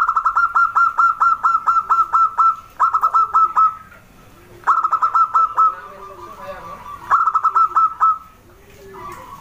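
Zebra dove (perkutut) calling: four bursts of quick staccato cooing notes, about five a second, the first nearly three seconds long and the others about a second each. Fainter, lower coos sound in the gaps.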